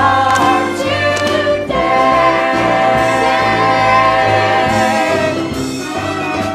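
A chorus of voices with instrumental accompaniment sings the last words of a song. They hold a long final chord for several seconds, which fades near the end.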